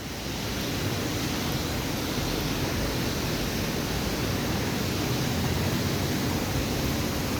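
Steady rushing noise that starts abruptly and holds at an even level.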